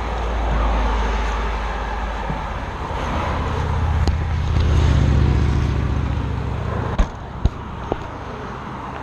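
Car driving: steady engine and road rumble that swells and shifts in pitch midway, with a few sharp clicks near the end.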